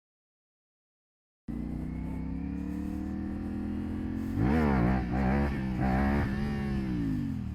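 CFMOTO sport motorcycle engine, after a second and a half of silence, running with revs slowly climbing. It then gives three sharp throttle blips, each rising and falling, as a rider pulls wheelies.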